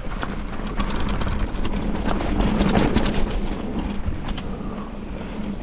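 Electric mountain bike ridden over a rocky trail: wind buffeting the microphone, tyres and frame clattering over rocks, and a steady hum from the Bafang M620 mid-drive motor under load, loudest about two to three seconds in.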